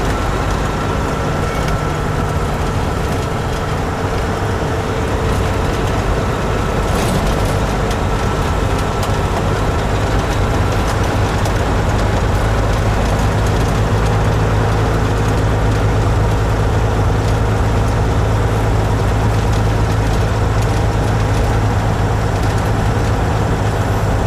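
Kenworth truck's diesel engine running steadily, with a low hum whose deep note grows a little stronger about halfway through.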